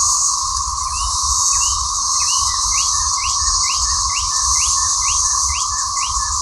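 Loud chorus of cicadas: a steady high hiss with a steadier, lower drone beneath it. From about a second in, a bird calls over it in a quick series of short rising chirps, about two a second.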